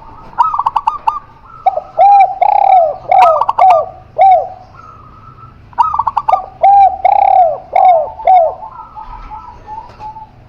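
Spotted dove and zebra dove cooing: two phrases, each opening with a quick run of short higher notes and going on into several slower, lower arched coos.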